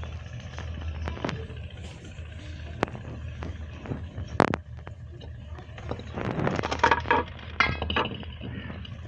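Steady low hum in a kitchen with scattered sharp clicks and knocks, one louder click a little before halfway, and a busier stretch of mixed handling sounds about six seconds in.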